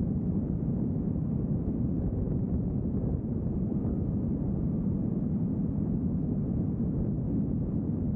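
Steady low rumble of a vehicle driving at an even speed, its road and engine noise.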